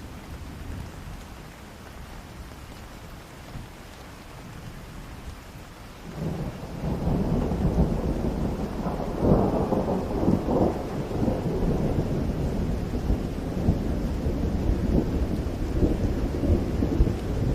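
Steady rain falling, with thunder starting about six seconds in and rumbling on loudly to the end.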